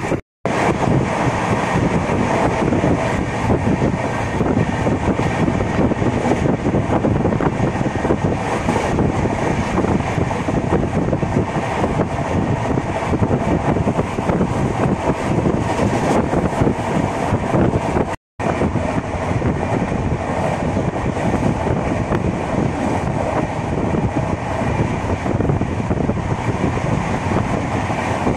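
Kerala Sampark Kranti superfast express train running at speed, heard from inside the coach: a loud, steady rush of wheels on rails and wind. It cuts out briefly twice.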